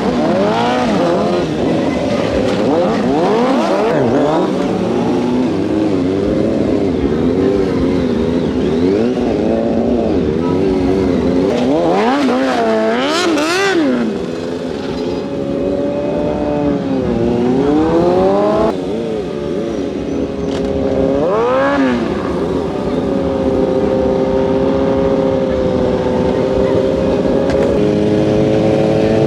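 Stunt motorcycle engines revving up and down, several at once and overlapping at first, then a few sharp rev rises through the middle before holding a steady note near the end.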